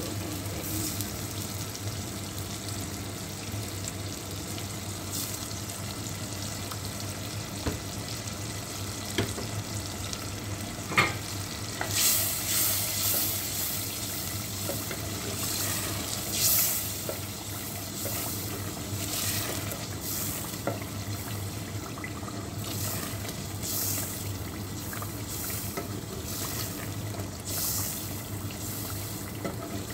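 Tomato-and-onion masala bubbling and sizzling in a steel pot, with yogurt just stirred in. From about twelve seconds in, a plastic spatula stirs and scrapes against the pot in repeated strokes, after one sharp knock on the pot, the loudest sound.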